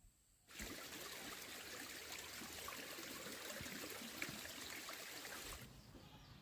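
Flowing stream water, a steady rushing and trickling that starts suddenly about half a second in and cuts off suddenly near the end.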